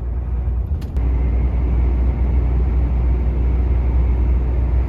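Volvo semi-truck's diesel engine running under way, heard inside the cab as a steady low drone. There is a brief click just under a second in, after which it gets a little louder.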